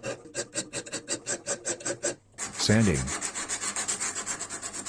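Hand file rasping back and forth over the bevel of a steel saw-blade knife, about seven quick strokes a second. After a brief break, abrasive paper rubs rapidly over the steel blade in the sanding stage.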